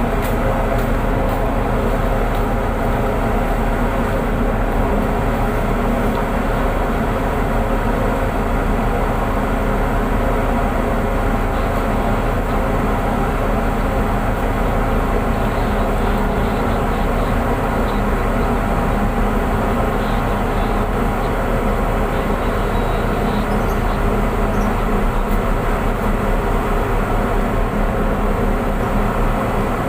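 Tugboat's diesel engines running steadily: an even, loud drone with a constant hum that does not change in pitch.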